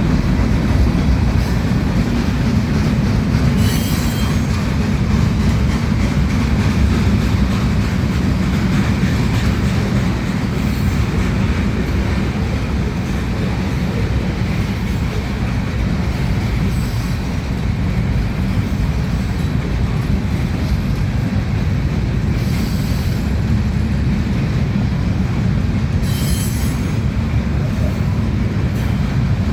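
Freight cars of a manifest train rolling past: a steady rumble of steel wheels on the rails, with brief high wheel squeals every few seconds.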